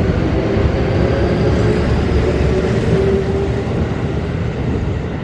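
Electric commuter train running past a station platform: a steady rumble of wheels on rail with a motor hum over it, the hum fading out after about three and a half seconds as the train clears the platform.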